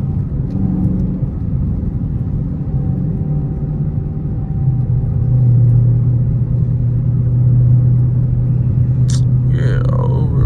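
Dodge Charger Scat Pack's 6.4-litre HEMI V8 running in traffic, a steady low drone that grows louder about halfway through as the car pulls. A brief sharp click comes near the end.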